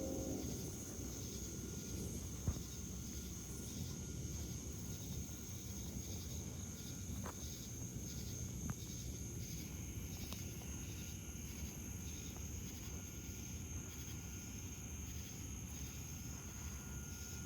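An evening insect chorus with cicadas: a steady high-pitched drone with a pulsing chirp repeating about twice a second. A low rumble runs underneath.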